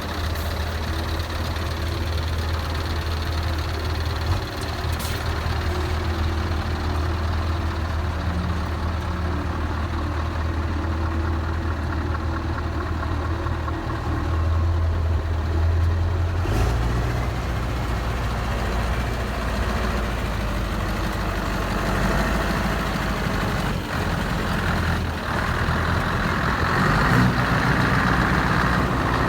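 A heavy truck's diesel engine idling with a steady low hum. Its note shifts lower about halfway through, and it gets a little louder near the end.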